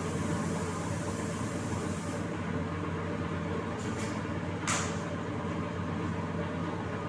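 Steady machine hum under the hiss of a paint spray gun, which cuts off about two seconds in. Three short hisses of air follow, the last the loudest.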